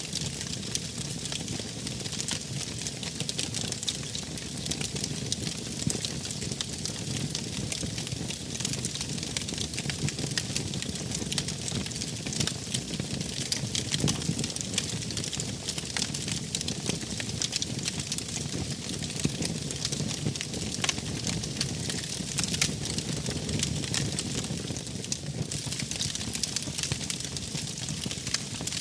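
Wood fire burning: a steady low rush dotted with many small, sharp crackles and pops.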